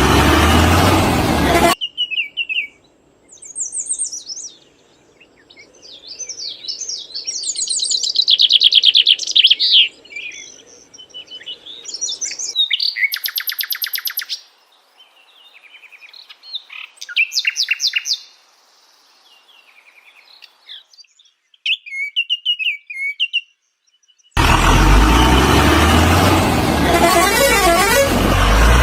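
Birds chirping and trilling in short, high, repeated phrases. A loud, rough noise fills the first couple of seconds and cuts off suddenly, then returns abruptly near the end.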